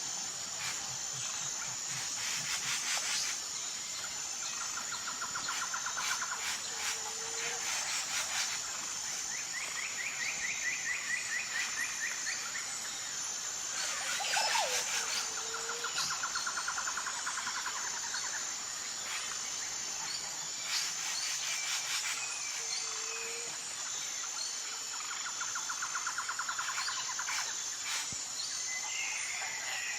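Natural outdoor chorus of a steady high insect drone, with several rapid trills of two to three seconds each and a short low call about every seven seconds.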